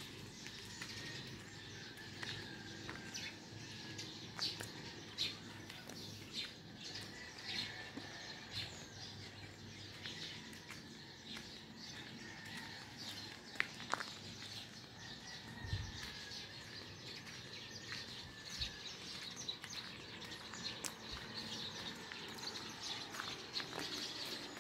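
Many small birds chirping and twittering, with short calls overlapping one another throughout. A single sharp tap stands out about halfway through.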